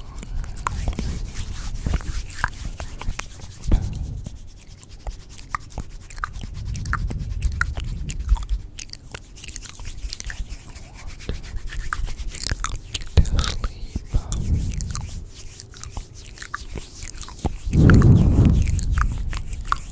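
Layered close-microphone ASMR sounds: many quick clicks and crunches over low rumbling swells, the biggest swell near the end.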